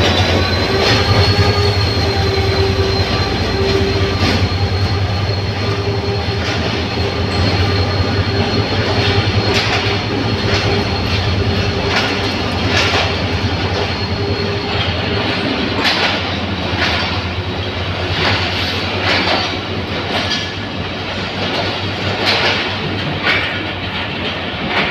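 Passenger coaches of an arriving train rolling past, their wheels clacking over rail joints in pairs, under a steady low rumble. A steady high brake squeal runs over this and stops about fifteen seconds in.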